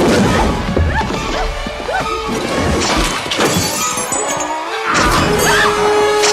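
Horror film soundtrack: tense music with repeated crashes and glass shattering.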